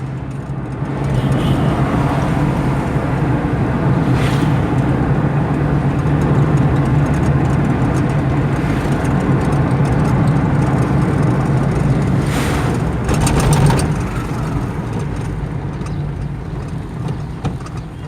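Car driving along a highway, heard from inside the cabin: a steady low engine hum with road and tyre noise. Brief louder rushes come about four seconds in and again about twelve to fourteen seconds in.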